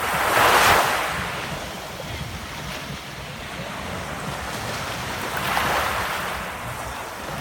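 Ocean waves surging and breaking, two swells of rushing noise, the first about half a second in and louder, the second near six seconds, over a steady low rumble.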